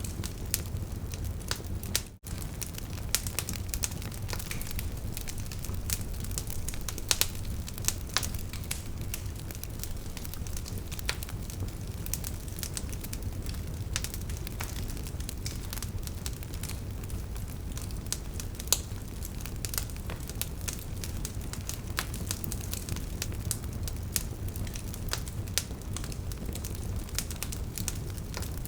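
Wood fire burning, with frequent irregular sharp crackles and pops over a steady low rumble of flame. The sound drops out briefly about two seconds in.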